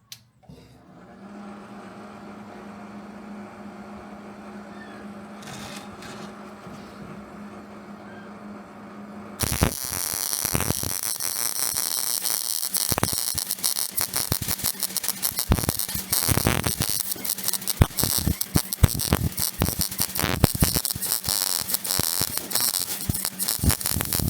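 MIG welder: a steady hum for about nine seconds, then the welding arc crackles and sputters loudly with rapid, irregular pops for the rest.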